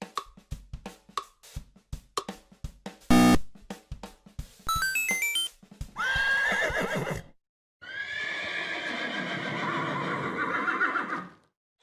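A short drum beat and a quick rising run of chime-like notes, then a horse whinnying twice: a short wavering call, a brief pause, then a long one.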